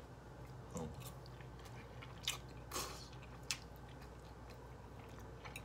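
A person chewing a mouthful of pasta in Alfredo sauce, quietly, with a few faint short mouth clicks.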